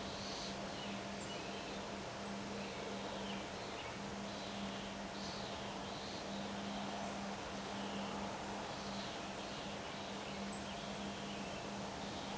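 Outdoor ambience in windy weather: a steady rush of wind with birds chirping on and off, over a steady low hum.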